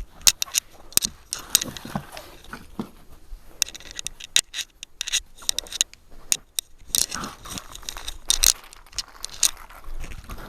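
Rummaging through and handling sofa-bed parts and packaging: irregular clicks, knocks and scraping, with some rustling.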